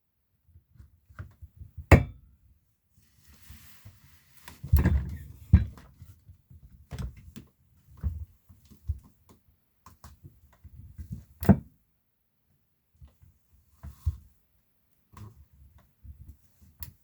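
Ergohuman Pro office chair making sharp, irregular clicks that sound like a spring bouncing, with low thuds and creaks between them, as the backrest recline is worked. This is a persistent abnormal noise that greasing the gas cylinder tip has not cured, and the owner wonders whether the gas cylinder needs replacing.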